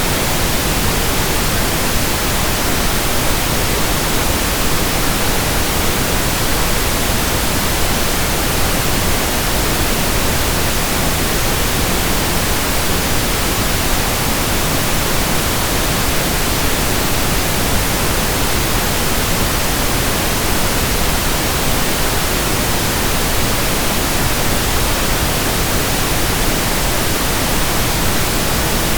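Steady pink noise: an even, unbroken hiss spread across all pitches.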